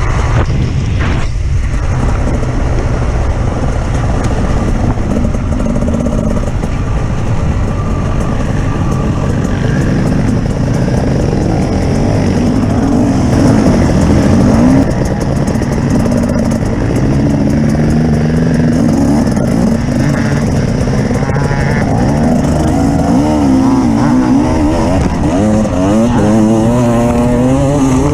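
Off-road vehicle engine running hard over a loud, steady rumble, its pitch rising and falling as the revs change, and swinging up and down more often in the second half.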